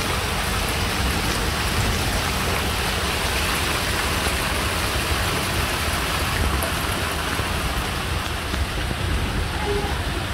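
Heavy downpour falling steadily, a dense, even hiss of rain.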